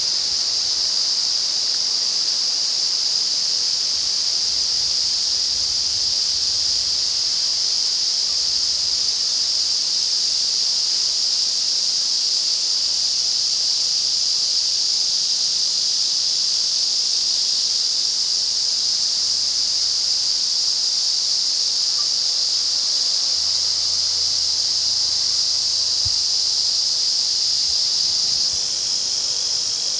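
Dense chorus of Ezo cicadas (Lyristes japonicus): a loud, steady, high-pitched drone without a break, a midsummer 'wall of sound'. Near the end it shifts slightly and dips a little in loudness.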